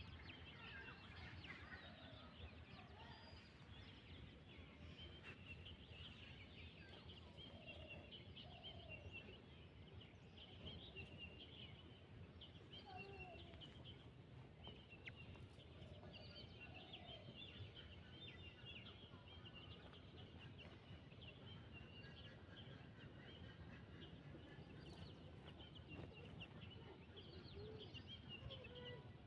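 Faint calls of chickens feeding, an occasional short call every few seconds, over a steady scatter of high, thin chirps.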